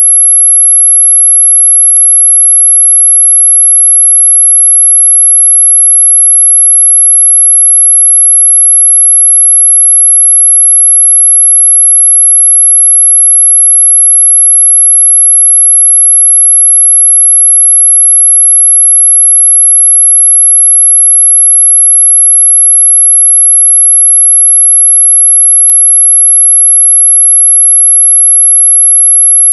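Loud, steady, high-pitched electronic pure tone, a mosquito-repellent sound held unbroken at one pitch, with two faint clicks, about two seconds in and near the end.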